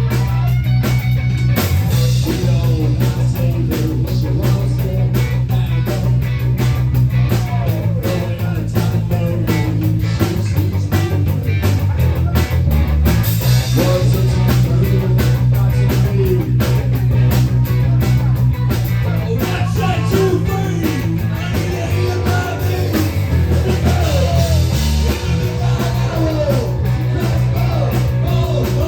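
Loud rock song with electric guitar, a driving drum kit and a heavy bass line.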